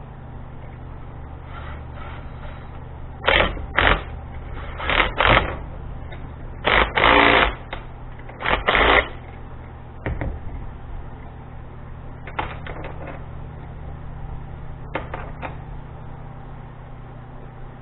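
Metal clattering and clicking in four loud bursts, each shorter than a second, from handling the come-along and its cable parts, followed by a few fainter clicks.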